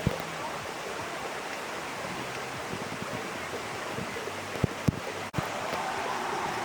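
Heavy rain falling steadily, a dense even hiss, with two dull thumps about four and a half seconds in.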